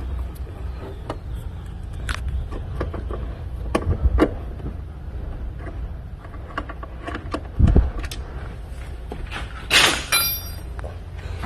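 Hand-tool work on engine-bay fasteners and parts: scattered metallic clicks and knocks, a deep thump just before 8 s, and a short scraping burst near 10 s that ends in a brief metallic ring.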